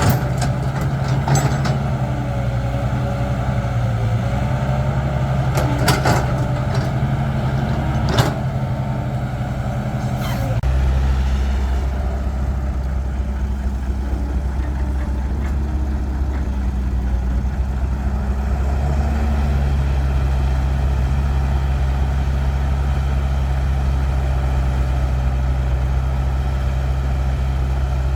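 Cat 312 excavator's diesel engine running under load, with a faint whine rising and falling from the hydraulics and a few sharp knocks in the first ten seconds. About ten and a half seconds in, the engine note drops deeper and then runs steadily.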